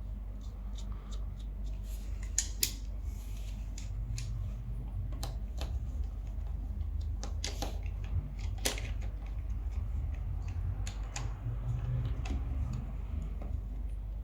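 Scattered clicks and metallic taps of hand tools working on a bicycle's crank and chainring bolt, irregular and a few a second at most, over a low steady hum.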